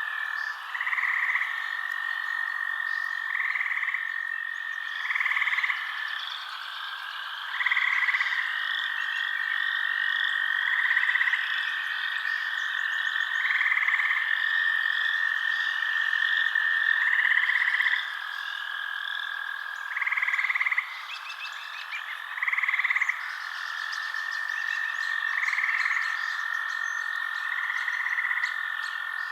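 Night chorus of frogs: a steady high trilling drone, with short louder calls repeating every two to three seconds over a faster, higher chirping.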